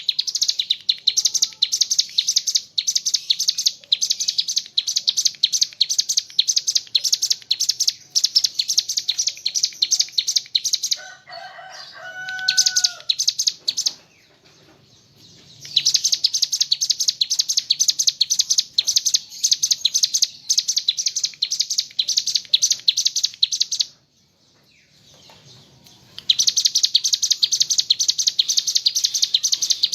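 Ciblek gunung singing a rapid-fire, high-pitched chattering song (the 'ngebren' style) in three long bursts with short pauses between them. Near the middle, during the first pause, there is a short lower call.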